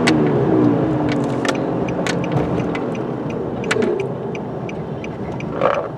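Nissan Frontier pickup's engine running as the truck slows, its note falling and then settling, heard inside the cab, with sharp clicks now and then. The truck is running with an oxygen sensor removed, to test for a clogged catalytic converter.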